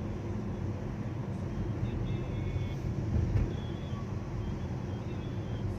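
Downtown street traffic: a steady low rumble of passing vehicles, swelling briefly a little past the middle, with faint short high-pitched sounds above it.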